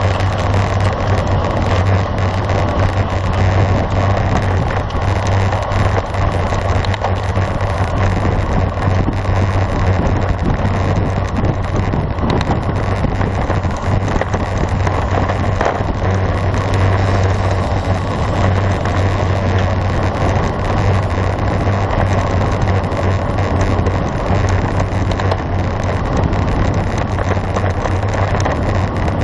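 Steady rush of wind on the microphone of a camera riding on a road bicycle at speed, with tyre and road noise underneath.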